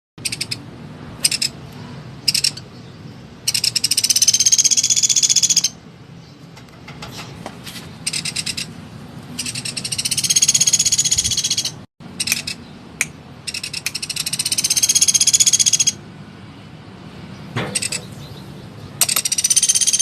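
Small woodpecker calling loudly in rapid, fast-paced trills, each about two seconds long and repeated roughly every five seconds, with short single call notes between them.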